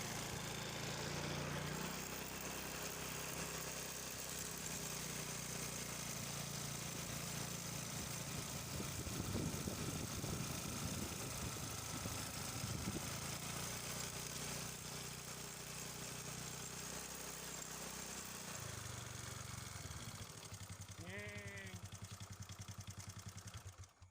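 Domestic cat purring close to the microphone: a steady low rumble that pulses throughout, with one short falling call about three seconds before the end.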